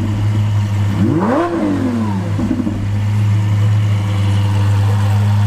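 Exotic sports car engine idling, with one quick rev about a second in whose pitch climbs and falls back within about a second.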